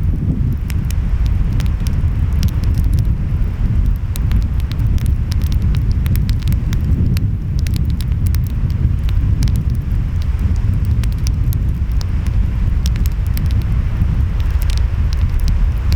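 Wood fire crackling, with frequent irregular sharp pops and snaps, over a steady low rumble of waves and wind.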